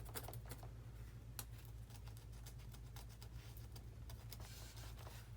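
Faint, irregular small clicks and crackles of a small hand tool pricking holes into the foam of an RC model's wing, over a steady low hum.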